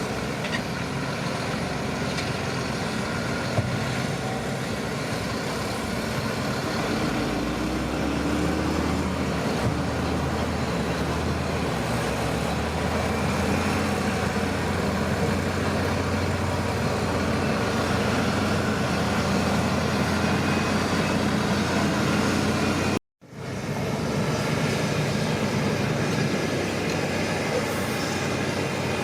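Shantui crawler bulldozer's diesel engine running steadily under load, its low drone growing stronger about seven seconds in. The sound cuts out completely for a moment about three quarters of the way through, then resumes.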